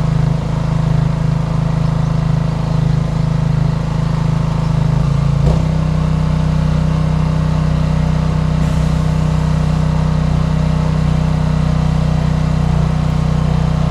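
Electric pressure washer running steadily with a constant motor-and-pump hum; the pitch shifts abruptly about five and a half seconds in and then holds steady.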